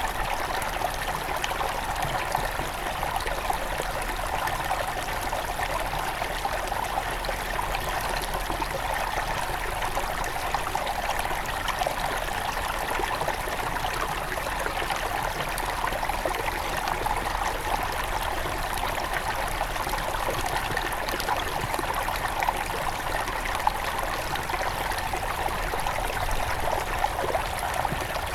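Headwater stream of a forest river running over stones: a steady rush of flowing water with fine, close splashing and gurgling, unchanging throughout.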